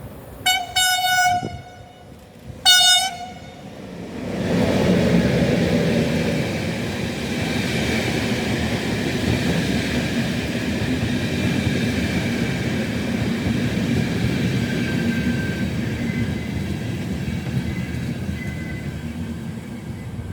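Train horn sounding twice, a longer blast then a short one. A train then comes through with a loud, steady rumble of wheels on the rails.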